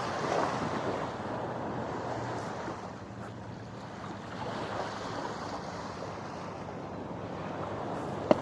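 Waves washing at the shore and wind buffeting the microphone, over a faint steady low hum, with one sharp knock near the end.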